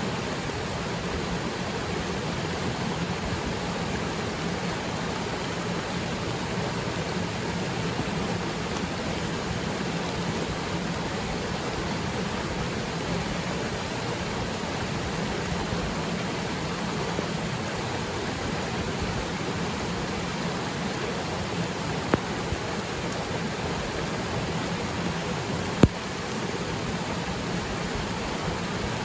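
Waterfall's steady rush of water plunging into its pool, with rain falling on the water. Two sharp ticks stand out near the end.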